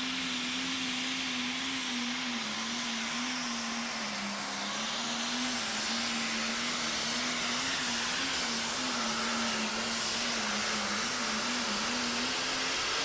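Competition pulling truck's engine at full power through a pull: a loud steady noise with a held pitch that dips slightly about four seconds in and wavers after that.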